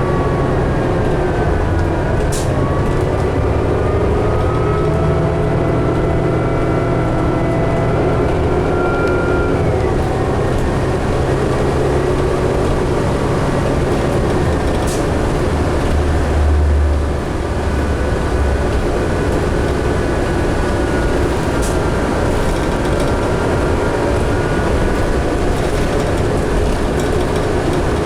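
Inside a 2011 New Flyer D60LFR articulated diesel bus under way: steady engine and drivetrain noise, with a whine that climbs in pitch over the first ten seconds or so and then drops away. There are a few sharp rattles, and the low rumble swells briefly past the middle.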